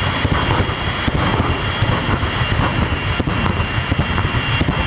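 Jet funny car's turbojet engine running at full power, a loud steady rumble with crackle.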